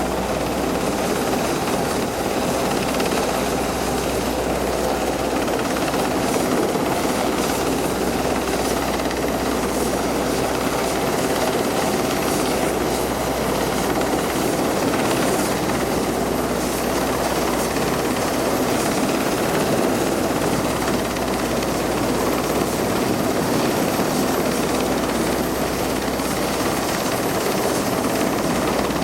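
Rescue helicopter close overhead: loud, steady rotor and engine noise.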